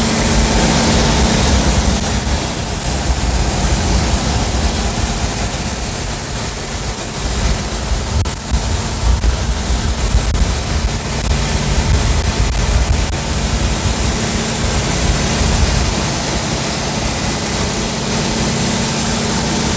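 Saen Saep canal express boat's diesel engine running steadily under way, a loud continuous rumble heard from aboard.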